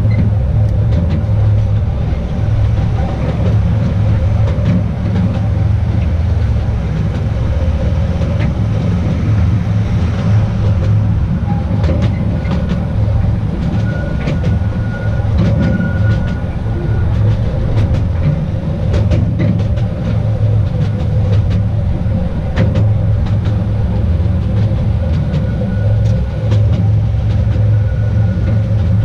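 Narrow-gauge tourist train running along its track: a steady low rumble with scattered clicks. A faint thin squeal, typical of wheels in a curve, comes in about halfway and again near the end.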